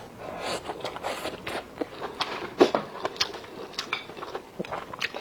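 Close-up eating sounds: chewing and mouth noises with many short clicks and smacks, and one sharper knock about two and a half seconds in.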